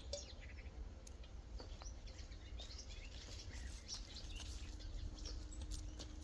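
Small birds chirping, many short calls scattered throughout, over a low steady rumble.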